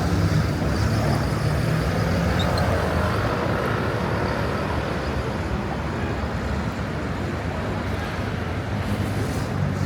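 Busy city street traffic: a steady wash of engine and tyre noise. A vehicle's low engine hum is strongest for the first few seconds, fades through the middle, and a low hum comes back near the end.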